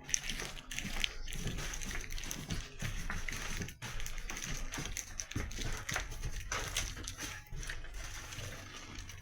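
Irregular knocks and rustles over a steady low hum inside a bus.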